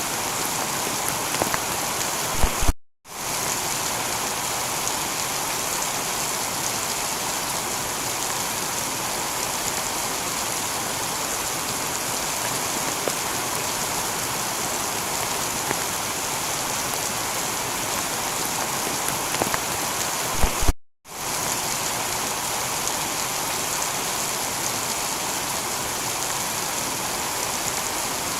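Heavy rain falling steadily on a tiled roof, a dense even hiss. Twice, about 3 seconds and 21 seconds in, a brief louder crackle is followed by the sound cutting out for a split second.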